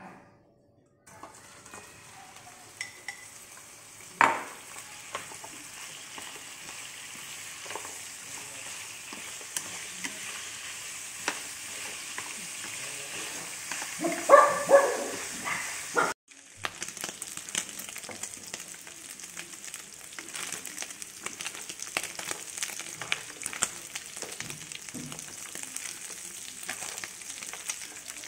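Pork ribs sizzling as they fry in a hot oiled non-stick pan over a gas flame, with wooden chopsticks clicking and scraping against the pan as they are stirred. A single knock comes about four seconds in, and a brief, louder sound with a pitched edge comes about halfway through.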